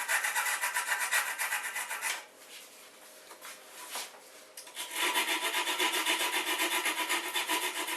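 A plastic cap being roughed with an abrasive: quick back-and-forth scraping strokes, about five or six a second, stopping after about two seconds and starting again about five seconds in. The scratching keys the plastic so glue will grip.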